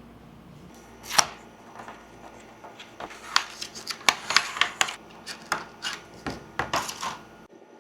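Handling noise: a run of sharp clicks and taps, one loud one about a second in, then a quick irregular cluster of them between about three and seven seconds.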